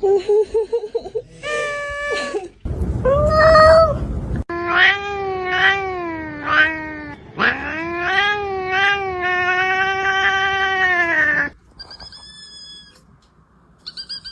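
Cats yowling and meowing in a run of drawn-out, wavering calls. The longest yowl, about halfway through, is held for some four seconds before it stops; only faint high tones follow.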